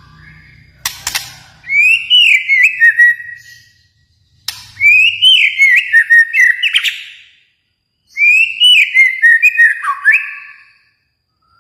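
A white-rumped shama (Bornean murai batu) singing three loud phrases of rich, gliding whistles mixed with quick high notes, a brief pause between each. A couple of sharp clicks come about a second in.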